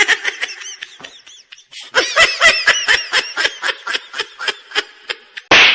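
High-pitched laughter in a long run of quick 'ha-ha' bursts, then a sharp slap-like hit just before the end.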